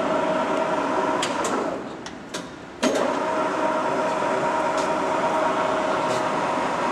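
Mazak 14x40 engine lathe running under power with a steady gear whine, its carriage driven by the half nut on the leadscrew. About two seconds in the drive winds down to a brief lull with a few lever clicks, then starts up again abruptly, and a couple more clicks follow later.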